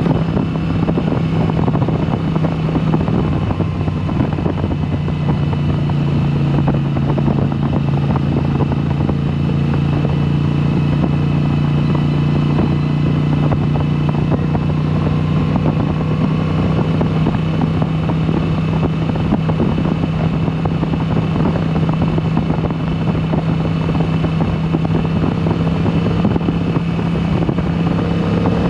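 2022 Moto Guzzi V7 Special's air-cooled 853 cc transverse V-twin running through a Mistral exhaust with the dB killers removed, holding a steady engine speed with only a slight dip in pitch about a third of the way in.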